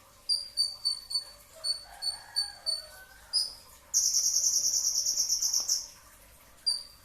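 Kolibri ninja (konin) sunbird singing: a run of short, high, clipped chirps about three a second. About four seconds in comes a rapid, buzzy high trill lasting nearly two seconds, the loudest part.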